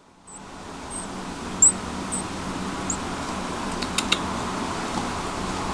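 Baby northern cardinal giving short, high begging chirps, about five in the first three seconds, over a steady fan hum. A few sharp little clicks follow in the middle.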